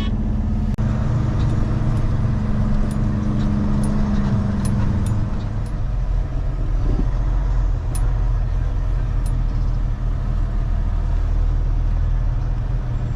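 Semi truck's diesel engine running with a steady low drone while driving.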